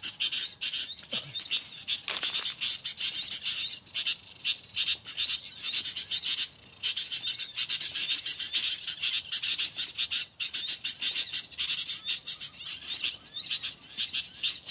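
Dense, continuous chatter of many small birds chirping rapidly over a steady high-pitched buzz, with a brief rustle about two seconds in.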